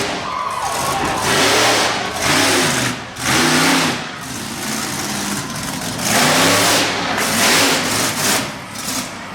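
Monster truck engine revving hard in repeated surges, its pitch climbing and falling again with each burst of throttle.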